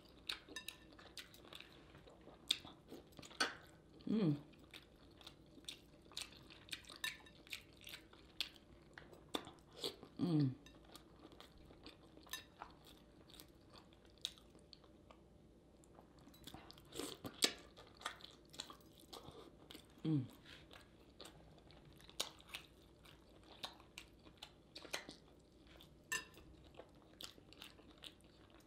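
A person eating a seafood boil of lobster tails, corn and potatoes in sauce close to the microphone: wet chewing and biting with many small sharp clicks and crunches. A few short sounds fall in pitch, about four, ten and twenty seconds in.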